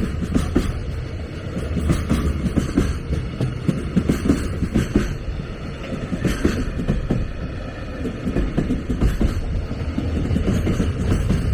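A train running past on the tracks: a steady low rumble with many irregular clacks from the wheels on the rails.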